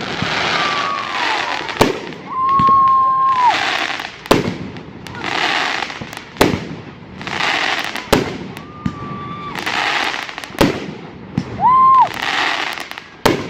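Fireworks going off in a steady sequence: a sharp bang about every two seconds, each followed by about a second of crackling hiss. Several short whistling tones sound between the bangs.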